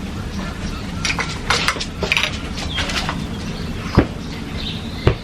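A series of light clicks and rustles, then two sharp knocks near the end, over a steady low hum.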